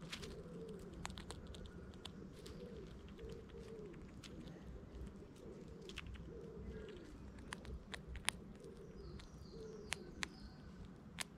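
Pigeon cooing over and over, one low coo about every second, with scattered sharp clicks, the loudest a little past the middle and near the end.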